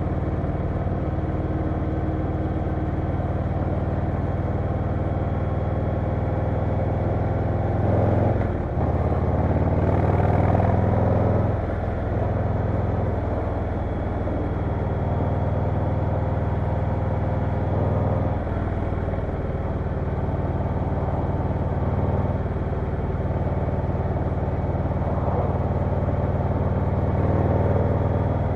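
Harley-Davidson Low Rider S V-twin engine running under way while riding, with the revs dipping and rising briefly about a third of the way in and smaller throttle changes later.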